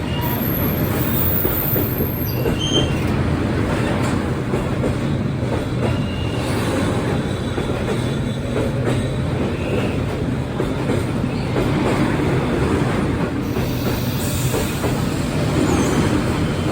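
Train rolling past on the street-side railway line: a steady, loud rumble with the rattle and clatter of its wheels on the rails.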